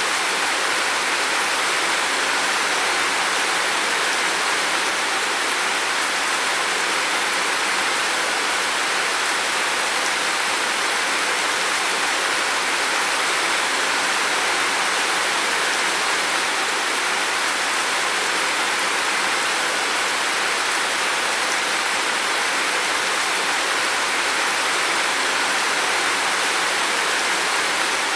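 Heavy rain pouring steadily, a dense, even hiss of falling water with no pauses or separate drops standing out.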